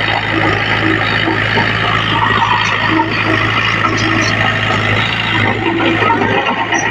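Heavy diesel machinery running steadily, a constant low engine hum under a dense layer of mechanical clatter.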